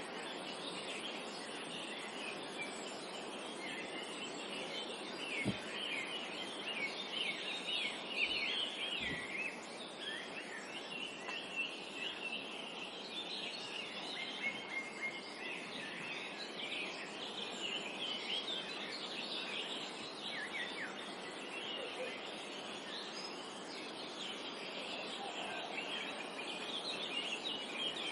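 Dense chorus of many small songbirds chirping and twittering over a steady background hiss of forest ambience, with a few faint low thumps about a third of the way in.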